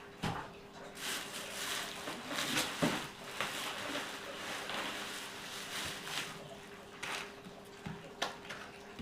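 Plastic food packaging rustling and crinkling as items are handled and taken out of a meal-kit box, with a few light knocks, over a faint steady hum.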